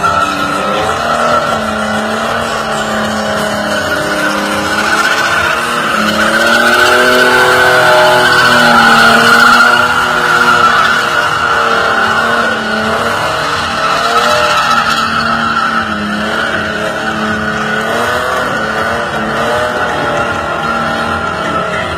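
Chevrolet Opala's straight-six engine revved hard over and over, its note rising and falling, loudest about a third of the way in, with a steady high whine running over it.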